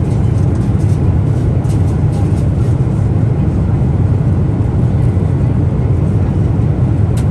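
Steady low cabin rumble of a Boeing 777-300ER in flight, engine and airflow noise heard from inside the economy cabin, with a few faint light ticks.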